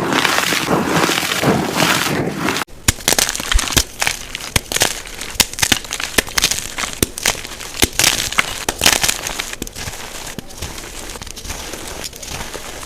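Unpolished jumbo gym chalk blocks being crushed, played back at double speed. For the first couple of seconds it is a dense, continuous crumbling crunch; it then cuts off suddenly and gives way to a run of sharp, separate cracks and crunches as the chalk breaks apart.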